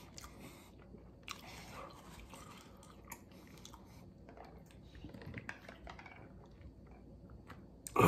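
A man chewing a mouthful of burger, with faint wet mouth sounds and a few small clicks, then a sudden much louder noise right at the very end.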